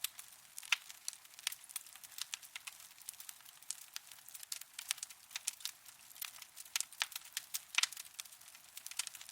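Wood fire burning in a fireplace, crackling with irregular sharp pops and snaps over a faint hiss.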